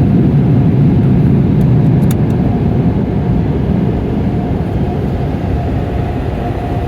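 Automatic car wash machinery working over the car, heard from inside the cabin: a steady low rumble of the large spinning brushes and water, with a faint steady whine above it, easing off a little from about three seconds in.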